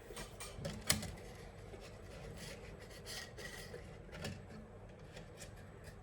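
Irregular scraping and rubbing strokes with scattered clicks, and one sharp click about a second in.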